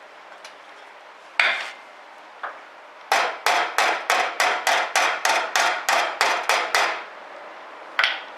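Hammer blows on sheet steel. A single blow comes first, then a quick even run of about a dozen ringing strikes at roughly three a second, and one more blow near the end.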